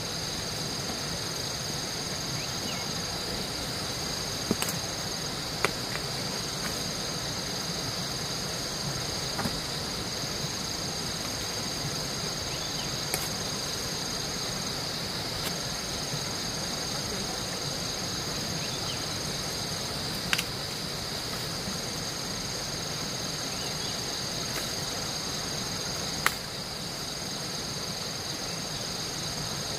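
Steady high-pitched drone of an insect chorus, with a few sharp clicks or knocks scattered through it.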